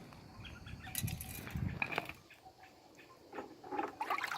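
Light knocks and rustles of ceiling fan parts being handled, a few short clicks about a second in and again near the end.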